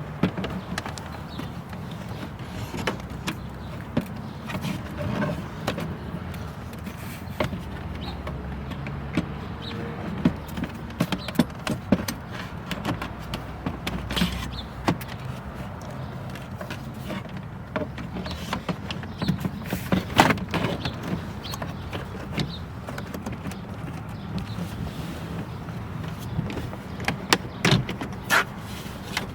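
Plastic glove box being fitted back into a 2017 Chevy Cruze dashboard: scattered knocks, clicks and scrapes of hard plastic, over a steady low hum.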